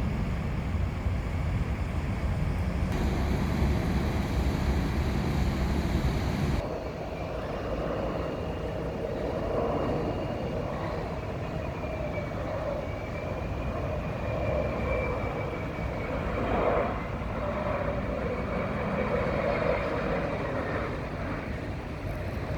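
Distant jet aircraft engines heard across the airfield: a low steady rumble, then, after an abrupt cut about seven seconds in, a steady engine whine that wavers in pitch.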